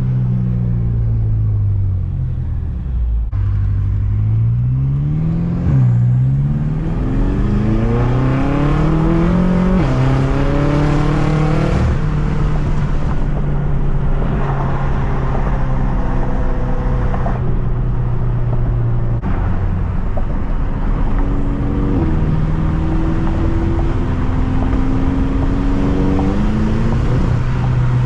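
Straight-piped BMW F10 M5's twin-turbo V8, with catless downpipes and resonator and muffler deleted, accelerating through the gears. The engine note climbs and drops back at each upshift, twice in the first ten seconds. It then holds steadier before climbing again near the end.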